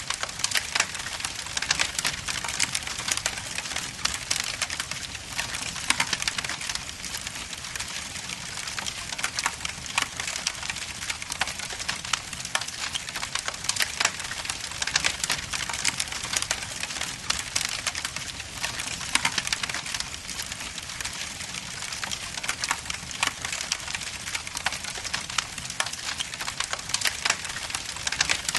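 Log fire burning in a fireplace: a steady hiss with dense, irregular crackles and small pops from the burning wood.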